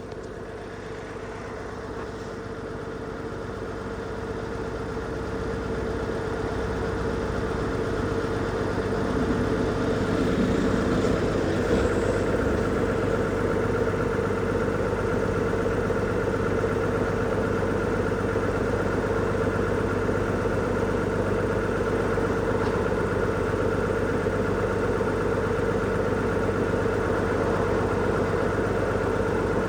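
A motor running steadily with an even hum, growing louder over the first ten seconds and then holding level.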